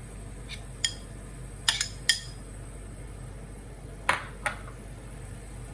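Kitchen utensils clinking against cookware: a handful of light clicks and clinks, a few with a short metallic ring, bunched in the first two seconds and again about four seconds in.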